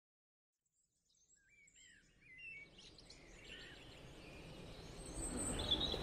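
Small birds chirping in short, quick up-and-down calls that fade in from silence, over a background noise that grows steadily louder.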